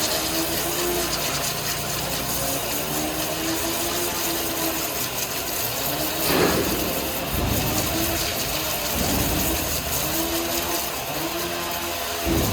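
Workshop machinery running steadily, an engine or motor hum with a slightly wavering pitch, and a brief louder swell of noise about six seconds in.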